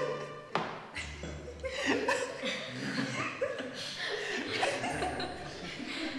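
A group of people laughing and chuckling together.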